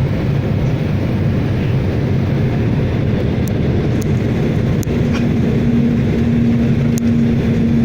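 Light propeller aircraft's piston engine droning steadily in flight. A steady higher hum joins about five seconds in, and a few faint clicks sound over it.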